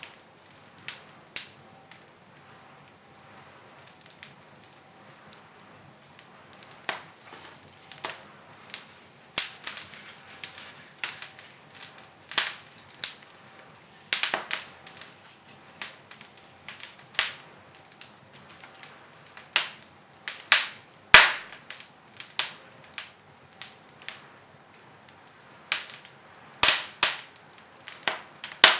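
Wood fire in a fireplace crackling, with irregular sharp pops a second or so apart and the loudest pop about two-thirds of the way in.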